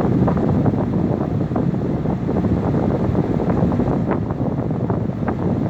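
LG window air conditioner running, its fan blowing a steady, loud rush of air, with a few light ticks over it.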